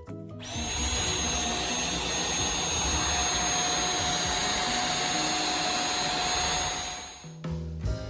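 Vacuum cleaner switched on, its motor whining up to speed, running steadily with a high whine over a loud hiss, then shutting off about seven seconds in.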